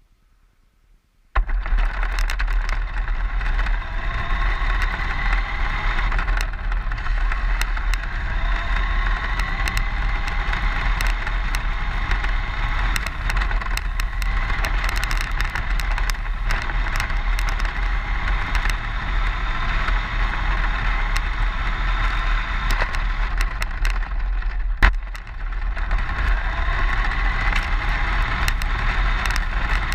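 Electric RC car driving along the road, heard from a camera mounted on it: a steady whine from the motor and gears over a low rumble and a constant crackle of the tyres on rough asphalt. It starts after about a second of silence, and there is a sharp knock with a brief drop in level about 25 seconds in.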